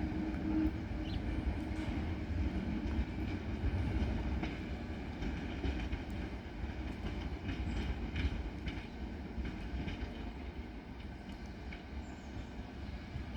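Class 73 locomotive hauling its train away, a low rumble with wheels clattering over the rail joints, fading gradually as it departs.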